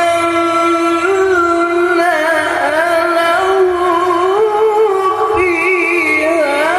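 Male qari reciting the Qur'an in melodic style, drawing out one long ornamented melisma without breaking into words. The pitch wavers and turns within a held note, then lifts to a higher phrase near the end.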